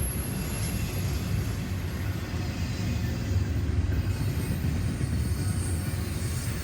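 A train passing on the rails: a steady low rumble of wheels and cars rolling along the track.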